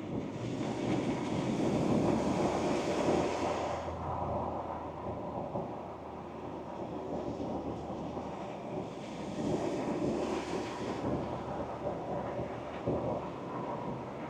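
2024 Ford Ranger Wildtrak pickup on the move: a low steady engine hum under road and wind noise, which swells twice, over the first four seconds and again around ten seconds in. The engine hum drops away shortly before the end.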